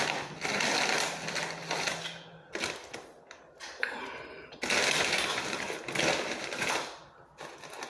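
Crackling and crunching of a foil snack bag of Takis rolled tortilla chips being rummaged for a chip. The noise comes in two stretches of about two seconds each, with quieter crackles between.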